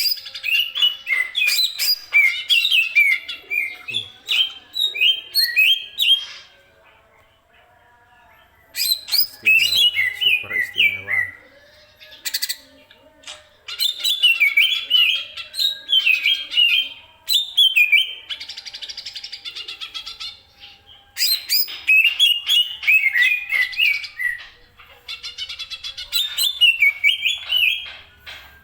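Cucak ijo (green leafbird) singing: loud bursts of rapid, sweeping whistled notes, each a few seconds long, with short pauses between phrases.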